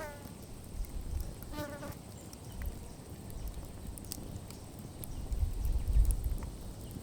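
Campfire burning with scattered sharp crackles and pops over a low rumble that swells near the end. Two short buzzy calls are heard, one right at the start and another about a second and a half in.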